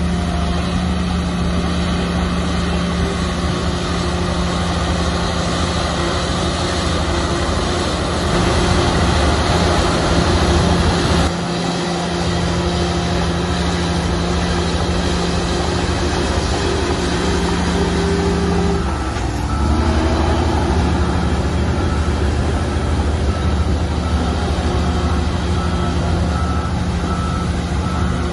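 Heavy diesel earthmoving machinery running under load with a steady engine drone. The engine works harder about a third of the way in, then drops off suddenly; near the two-thirds mark its pitch sags and recovers. A faint high beep repeats at even spacing through the second half.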